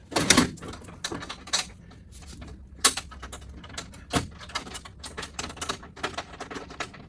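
Irregular clicks and knocks of tools and metal parts being handled while bolts are started into a truck bumper, with a few louder knocks about a third of a second in, near three seconds and just after four seconds.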